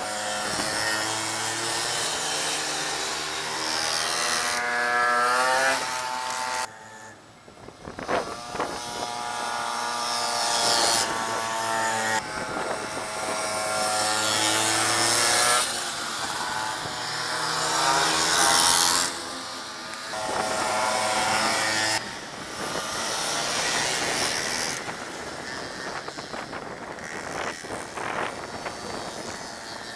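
Minibike engines racing past, revving high again and again, the pitch climbing as they accelerate and dropping away, in several waves of bikes passing. There is a short lull about seven seconds in.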